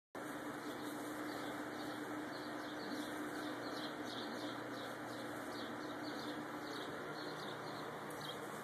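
A bird chirping over a steady hiss, with short, high, falling chirps repeated a few times a second. No snap pops go off.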